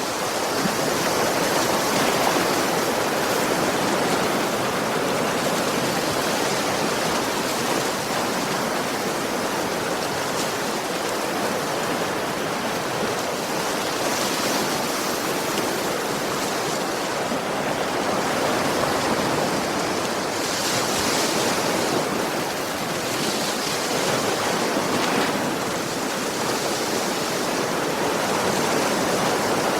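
Ocean waves breaking and washing on a beach: a steady rushing surf with slow, gentle rises and falls in level.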